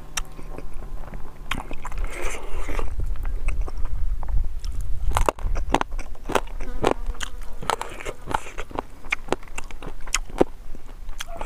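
Close-miked chewing and lip-smacking on a mouthful of pork trotter and rice: a steady run of sharp, wet mouth clicks and smacks.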